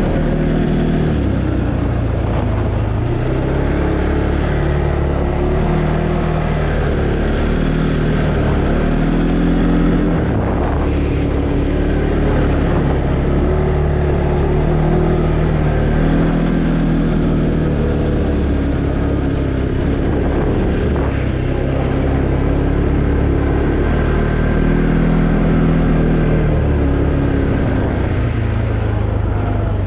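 Arctic Cat Alterra 700 ATV's single-cylinder engine running on the move, its pitch rising and falling again and again as the throttle is opened and eased.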